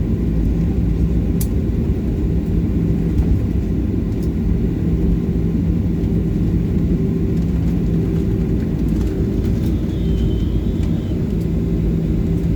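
Boeing 737-800 cabin noise: a steady rumble with a constant low engine hum as the airliner rolls on the ground after landing.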